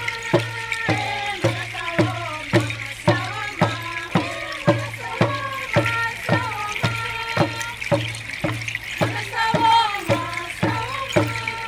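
Group of performers singing a traditional Papua New Guinean song with a steady drum beat of about two strikes a second.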